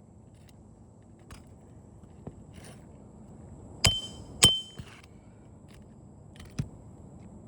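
Two sharp metal-on-metal hammer blows about half a second apart, each with a brief high ring, then a lighter knock near the end: a hammer striking a roof snake to drive roofing nails under a shingle.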